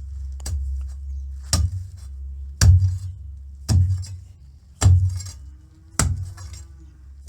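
A metal hand tool striking hard ground or stones in a steady rhythm of six blows, about one a second, each a dull thud with a bright metallic clink.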